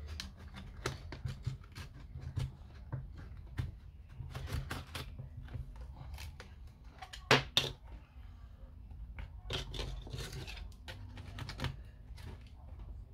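Irregular small clicks, taps and scrapes of tools and parts being handled while an Apple Time Capsule is taken apart, with a sharper double click about seven seconds in.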